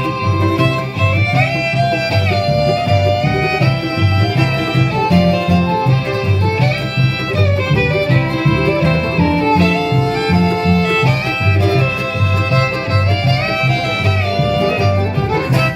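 Bluegrass band playing an instrumental passage: a fiddle carrying the melody over acoustic guitar, with steady alternating bass notes keeping the beat.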